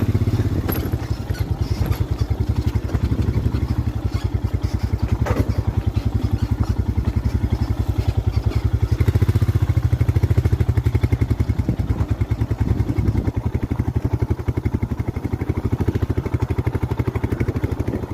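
Motorcycle engine running steadily with a fast pulsing beat as the bike is ridden over a rough, rocky off-road track.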